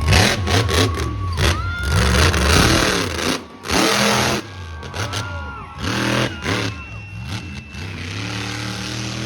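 Monster truck engine revving, its pitch rising and falling in repeated surges, with loud rushes of noise.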